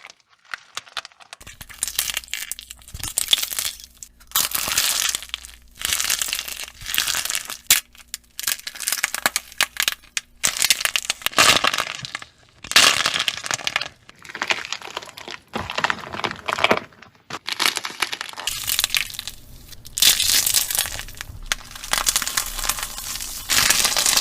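Crunchy slime with a hardened, brittle outer shell being pressed and squeezed by hand, the shell cracking and crinkling in repeated bursts about once a second, with short pauses between squeezes.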